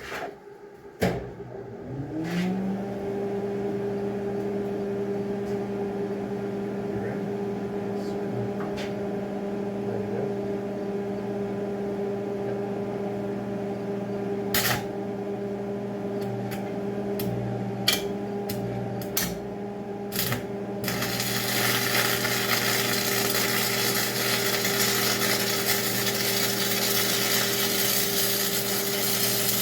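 Stick welder switched on, its cooling fan spinning up to a steady hum about two seconds in. A few sharp crackles follow as the electrode is struck to start the arc, then from about two-thirds of the way through comes the continuous crackling hiss of the arc running a bead at about 75 amps.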